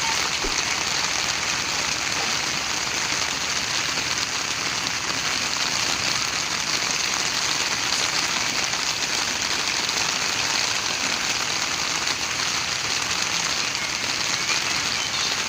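Steady heavy rain falling, a dense even hiss of drops without a break.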